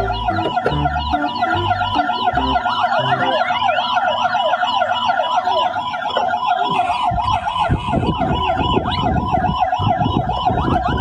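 Emergency-vehicle siren wailing in a fast up-and-down warble, rising and falling in pitch over and over.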